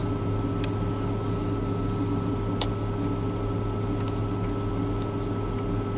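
Steady low mechanical hum with a faint constant whine inside a semi-truck cab, with two faint clicks a couple of seconds apart.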